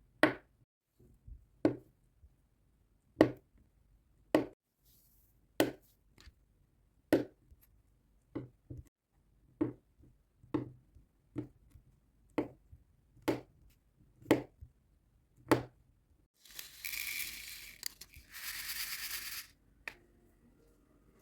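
Diamond-painting handwork: a run of sharp taps, about one a second, then about three seconds of tearing, rustling noise near the end.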